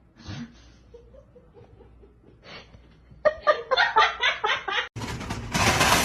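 A person laughing in quick rhythmic pulses for about a second and a half, after a few faint sounds. Near the end it cuts off abruptly into a loud, steady hiss-like noise.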